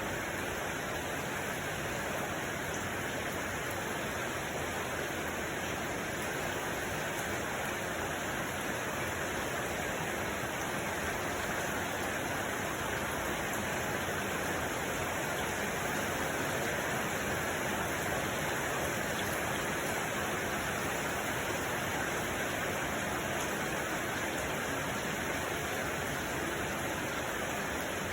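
Steady, even rushing noise that does not change and has no separate events.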